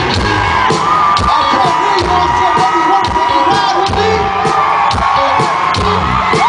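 Loud live concert music with a steady beat, heard over a crowd cheering and screaming.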